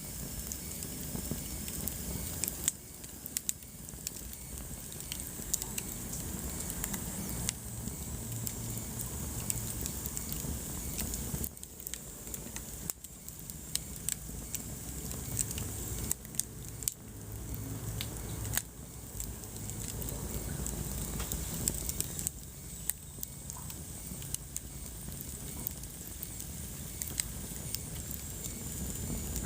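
Wood fire crackling in a fireplace: frequent sharp pops and snaps over a steady low background of burning.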